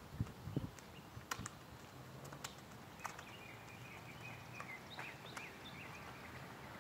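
Faint outdoor ambience: a small bird chirping a string of short notes in the middle, with a few light, sharp ticks before it.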